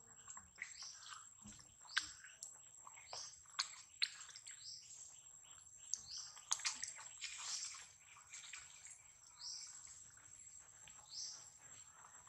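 Birds chirping in short, repeated high calls, over a steady high-pitched whine.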